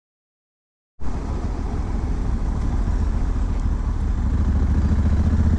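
After about a second of dead silence, a Honda Africa Twin's parallel-twin engine runs under way, steadily and growing slowly louder.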